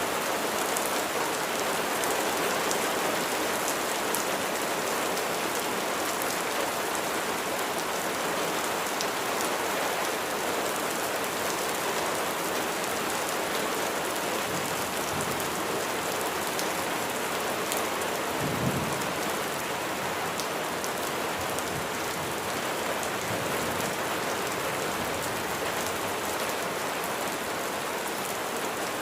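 Steady heavy rain pattering on surfaces, with a brief low rumble of thunder about two-thirds of the way through.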